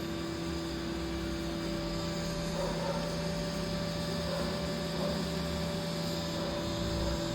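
Steady electrical hum with an even hiss, from welding equipment running.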